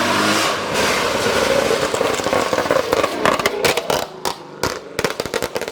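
Ford Mustang under hard throttle, its engine revving high amid dense tyre noise, then from about three seconds in a rapid string of sharp pops and crackles as it comes off the throttle.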